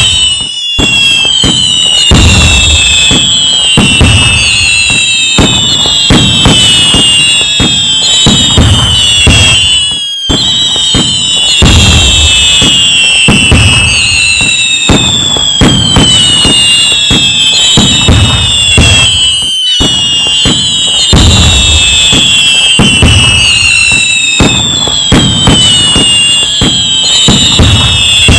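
Loud fireworks: dense, continuous bangs and crackling overlaid with many high whistles falling in pitch. The same stretch repeats about every ten seconds, each repeat starting after a brief dropout.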